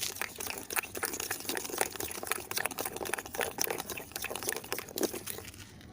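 Toothpaste slime mixture being stirred, giving a dense run of irregular wet, sticky clicks and crackles.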